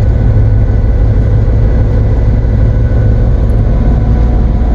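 Diesel locomotive engine running with a steady low drone, with a faint steady whine above it.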